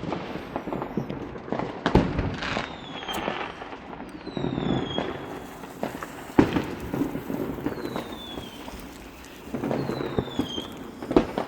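Fireworks going off: a few sharp bangs, several short whistles that fall in pitch, and stretches of crackling.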